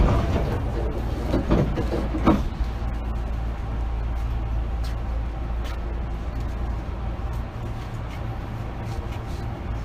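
Inside a car of a Hankyu 8000 series electric commuter train: a loud thump at the start and a few knocks over the next two seconds, then a steady low hum.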